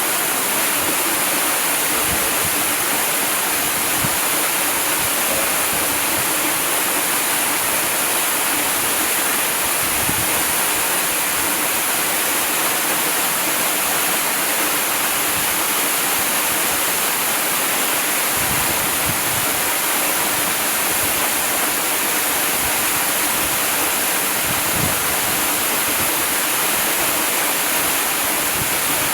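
Waterfall: a steady, unbroken rush of falling water, bright and hissing.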